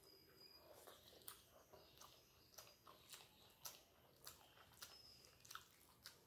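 A person chewing a mouthful of rice and fish curry, heard close up as faint wet mouth clicks, about two a second.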